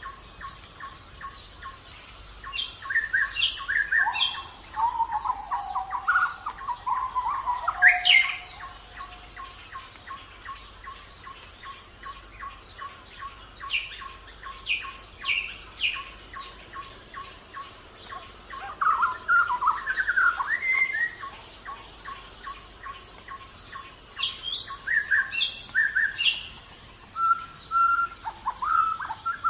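Wild birds singing and calling in several bouts of chirps and quick rising and falling notes, over a steady, rapid, evenly spaced ticking and a thin high steady tone in the background.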